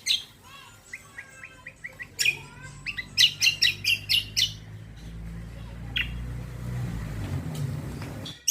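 Cucak kombo songbird singing: soft whistled notes, then about two seconds in a fast run of loud, high chirps lasting a couple of seconds, used as lure song to get other birds to answer. A low rumble rises beneath it in the second half.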